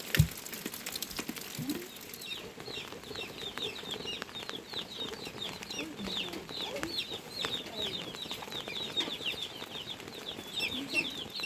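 Chickens clucking, with many short, high chirps following one another throughout. A single sharp thump comes right at the start.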